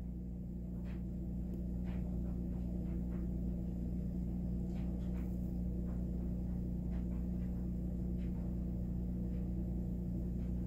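Steady low hum, with faint scattered clicks and taps from handling a metal oven door hinge.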